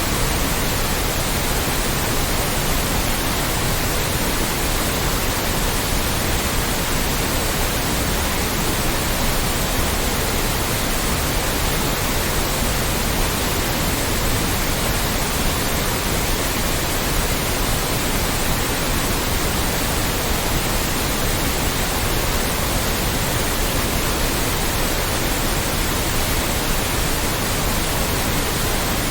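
Loud, steady white noise: an even hiss across all pitches with no change or interruption.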